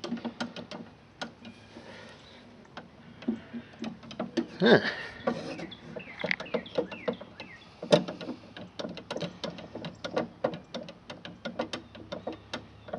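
Irregular light clicks and knocks with a few short chirps, quietest for a second or so early on.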